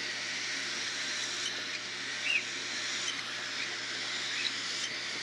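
Baby cockatiels begging for food: a steady raspy hiss with many faint short chirps and one louder chirp a little past two seconds in.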